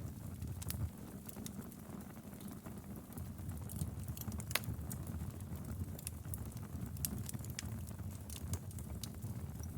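Wood fire crackling in a fireplace: a steady low rumble of the flames with irregular sharp pops and snaps, one louder pop about halfway through.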